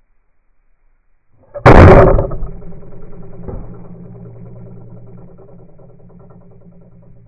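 A bow shot: a sudden, very loud sharp crack about a second and a half in, followed by a low hum that fades slowly over several seconds.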